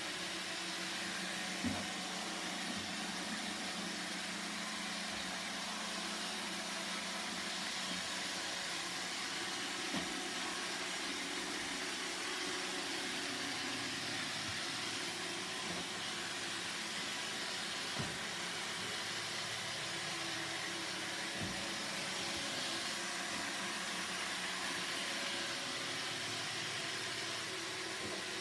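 Roomba robot vacuum running: a steady hum and hiss from its motor and brushes, with a few faint knocks here and there.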